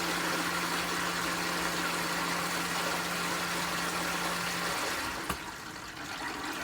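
Pool filter pump running with a steady hum and rushing water, then shutting down about two-thirds of the way through as the EasyTouch control returns to auto mode. A single click follows, then quieter water trickling in the plumbing.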